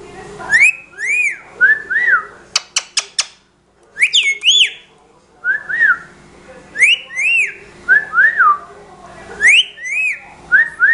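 Pet talking bird whistling the same short phrase again and again: a rising note, an arched note, then two shorter notes. There are four sharp clicks about three seconds in.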